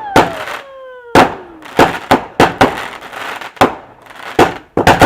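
Fireworks going off: a quick, uneven run of about eight loud, sharp bangs. A whistling tone falls in pitch during the first second and a half.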